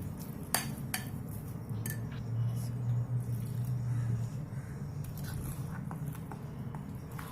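Spoon clinking against a mixing bowl while potato and gram-flour batter is stirred: a few sharp clinks, most in the first two seconds, over a steady low hum.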